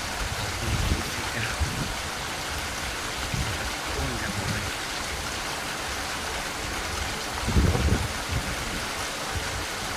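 Steady rain falling, an even hiss, with a few low rumbles, the loudest about eight seconds in.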